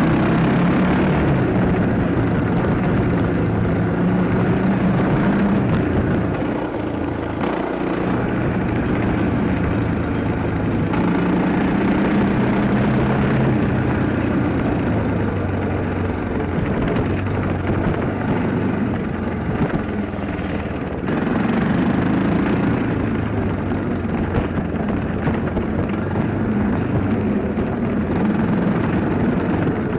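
Dirt bike engine running hard while being ridden, its pitch rising and falling with the throttle, easing off briefly twice.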